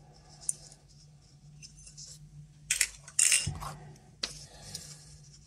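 Small metal Geiger counter tubes clinking and rattling as they are handled, with a cluster of loud clinks about three seconds in and one more sharp click a second later, over a low steady hum.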